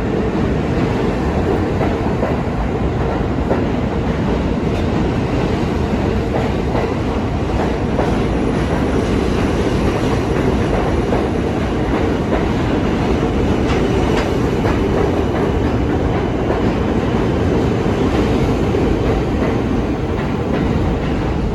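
New York City subway train running in the station: a steady, loud rumble with wheels clattering over the rail joints.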